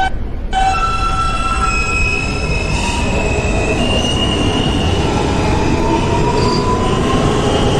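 A New York subway train pulling out of a station, heard from inside the car: a heavy running rumble with the wheels squealing in several high, steady tones. A whine rises slowly in pitch as the train gathers speed.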